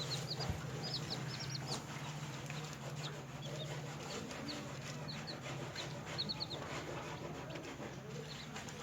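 Newly hatched chicks peeping: very short, high-pitched chirps in quick clusters of three or four, repeated every second or two. A steady low hum runs underneath.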